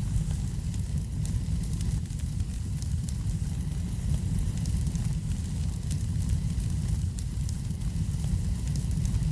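Wood fire in a fireplace crackling, with frequent small pops over a steady low rumble.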